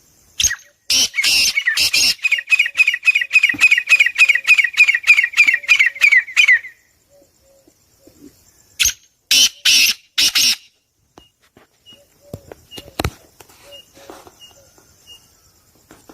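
Caged pet birds squawking: a fast run of shrill, harsh calls, about five a second for some six seconds, then a few more loud squawks about nine seconds in, followed by softer chirps.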